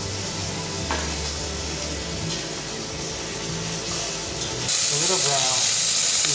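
Soft background music with a light clink about a second in. Near the end a loud, steady sizzle takes over: two seasoned fillets frying in hot oil in a stainless steel saucepan.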